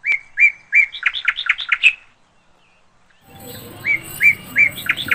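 Bird chirping: three short chirps, then a quick run of rising notes. The whole phrase sounds twice, the second time about four seconds in.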